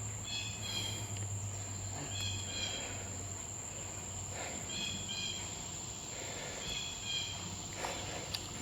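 A Say's trig's steady, high-pitched trill runs unbroken. Over it a bird gives a short phrase of quick notes about every two seconds, four times.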